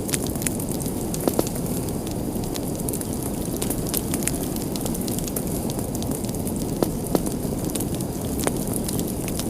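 Wood fire burning in a fireplace: a steady low rush of flames with irregular crackles and a few sharper pops.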